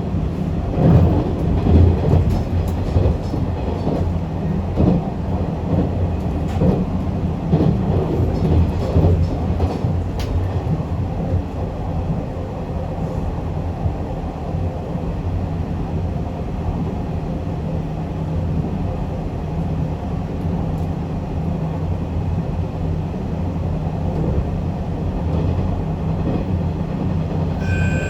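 A train running at speed: a steady low rumble of wheels on rail, with clicks and knocks from rail joints and points over the first ten seconds, then an even running noise.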